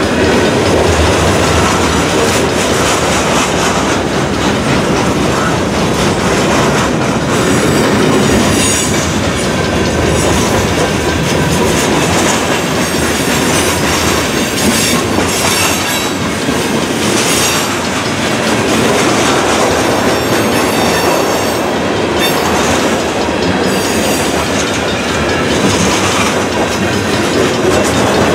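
Freight cars of a long mixed freight train rolling past close by: the steady, loud rumble and clatter of steel wheels on the rails.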